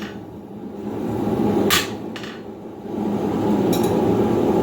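Hammer blows on hot steel at the anvil: two strikes close together about halfway through and a lighter one later, over a steady low roar.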